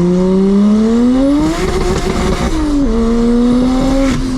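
Single-turbo BMW N54 straight-six revving hard under a wide-open-throttle pull, its pitch climbing steadily, then breaking up briefly near the top, as when it bounces off the rev limiter. About three seconds in the revs drop suddenly with a gear change, and the engine pulls again, climbing slowly.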